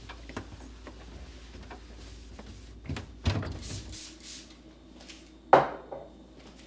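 Household objects being handled in a kitchen: light clicks and knocks, a thump about three seconds in followed by brief rustling, then a sharp knock about five and a half seconds in, the loudest sound.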